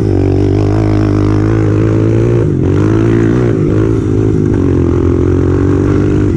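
Honda CRF125F dirt bike's single-cylinder four-stroke engine running under throttle. The pitch dips briefly about two and a half seconds in, then climbs again and holds steady.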